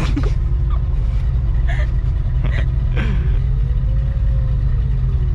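Infiniti G35 coupe driving, heard from inside the cabin as a steady low engine and road rumble, with a few brief knocks and short sounds over it.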